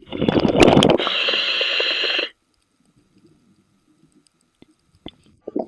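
Scuba diver breathing through a regulator underwater: a crackly rush of exhaled bubbles about a second long, then about a second of steady regulator hiss that cuts off sharply. A short burst of bubbles comes at the very end.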